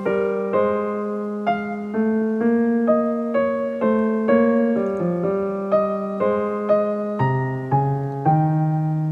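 Soft background music on piano or electric piano: gentle notes played about two a second, each struck and fading.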